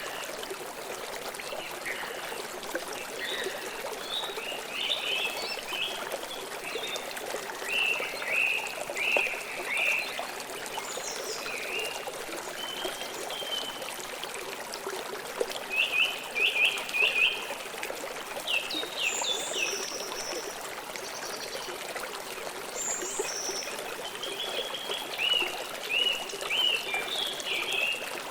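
River water flowing steadily, with birds chirping repeatedly over it; the loudest run of chirps comes a little past halfway, with a few higher calls just after.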